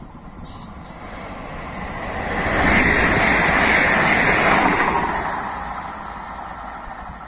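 Electric multiple unit passenger train passing close by at speed: the rushing noise of its wheels on the track swells as it approaches, is loudest for about three seconds in the middle, then fades as it runs away down the line.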